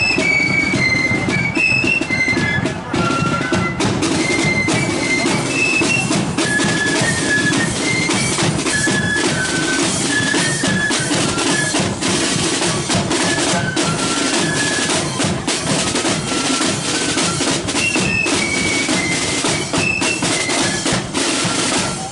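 Marching flute band playing a tune: high flutes carry a stepping melody over snare drums and a bass drum.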